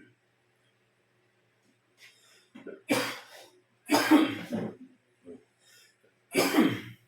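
A man coughing: three loud coughs with a few smaller throat sounds between them.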